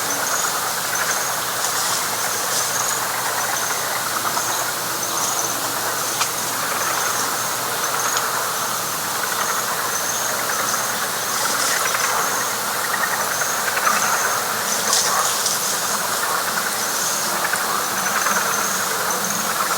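Night chorus of frogs in wet pine flatwoods: a dense, steady, pulsing chorus, with a short high chirp repeating about once a second over it.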